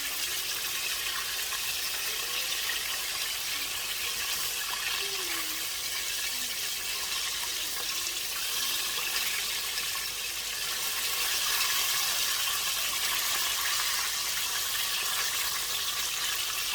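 Chicken wings frying in hot oil in a deep fryer: a steady sizzling hiss.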